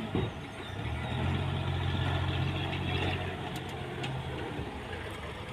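An engine running steadily at a low, even pitch, which falls away shortly before the end.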